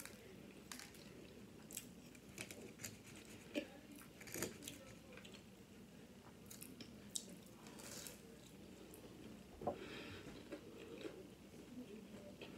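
Faint chewing of a fried breaded chicken tender, with scattered soft crunches and wet mouth clicks, a few louder ones about three and a half, four and a half and ten seconds in.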